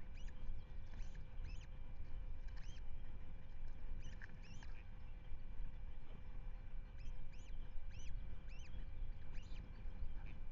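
Osprey calling from the nest: a series of short, high, thin whistled chirps, coming in loose runs with short pauses between them, over a steady low rumble.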